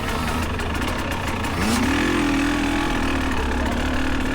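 Dirt bike engines running at the start line; about one and a half seconds in, one engine revs up and holds high before easing off a little, over the steady rumble of the others idling.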